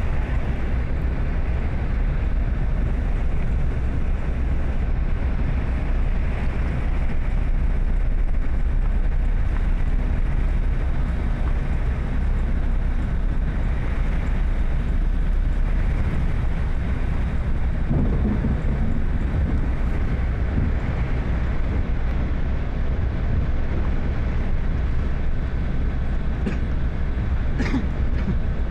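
Steady rumble and road noise of a vehicle driving in heavy rain, with a faint steady whine and a short high sound near the end.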